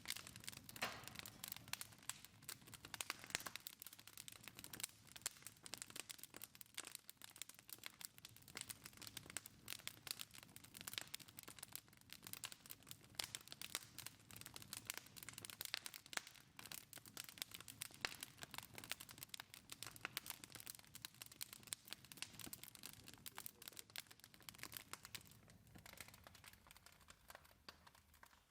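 Split logs burning in a wood fireplace, crackling with a dense, irregular run of small pops and snaps over a faint low rumble of the fire.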